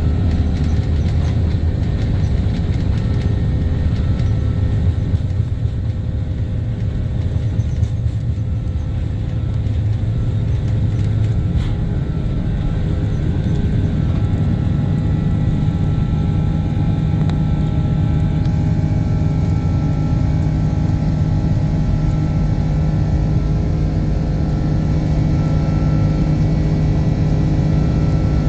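Cabin noise inside an Airbus A330-200 during departure: a steady low rumble from its Rolls-Royce Trent 700 engines and the airframe, with a few steady tones in it that grow a little stronger about halfway through.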